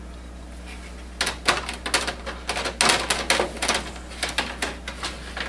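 Plastic printer parts being handled: a rapid run of clicks and clatter starting about a second in, as a plastic cover is fitted onto the paper tray of an Epson WorkForce WF-7610 inkjet printer.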